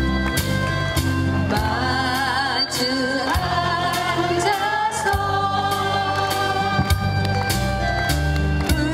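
A vocalist singing a song with instrumental accompaniment and a steady beat; the voice comes in about a second and a half in, with vibrato on held notes.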